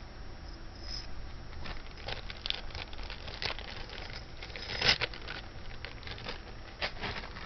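Light clicking and crinkling as necklaces are handled and taken out of small plastic bags, in scattered short taps with one sharper click about five seconds in.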